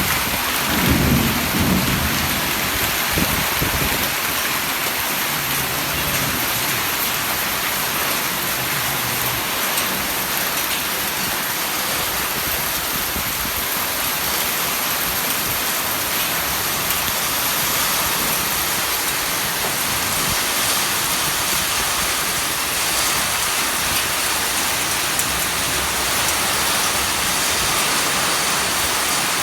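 Heavy rain pouring down in a steady, even hiss, with a low rumble in the first few seconds.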